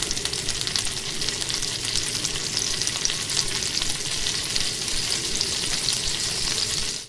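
Food sizzling in a frying pan: a steady crackling hiss that cuts off suddenly near the end.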